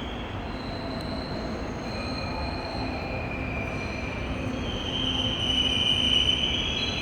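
Korail Class 351000 electric multiple unit (the flat-fronted '납작이') moving through the station with a steady rumble and high, steady wheel squeal that grows louder about five seconds in.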